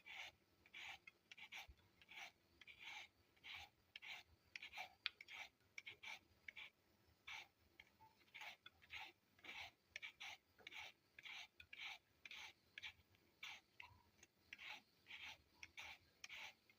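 Faint, rhythmic scraping strokes, about two a second, like a utensil or hands working food in a kitchen.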